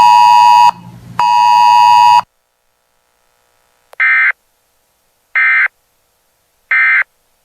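Weather radio alert audio at the end of a broadcast: a loud, steady buzzy beep that breaks off, sounds once more for about a second, then three short warbling data bursts about a second and a half apart. The bursts are the SAME end-of-message code that signals the alert broadcast is over.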